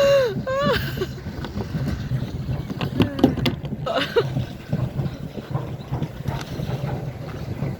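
Pedal-driven paddle boat under way: a steady low churning rumble of the paddle wheel and pedal drive working the water, with brief voices over it near the start and midway.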